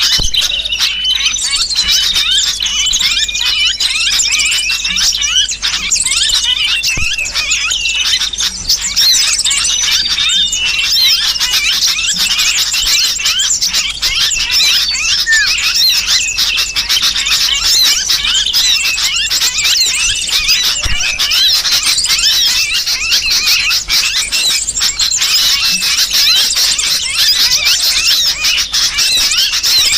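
Bird-lure recording: a dense, unbroken chatter of small-bird alarm calls, mixing sooty-headed bulbul scolding with the shrill squeals of a small bird caught and pinched. This distress chorus is played to draw small birds in for trapping.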